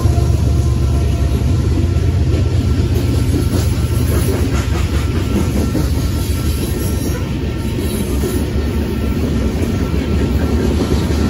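Freight train of covered hopper cars rolling past at speed: a steady, loud low rumble with steel wheels clacking over the rails.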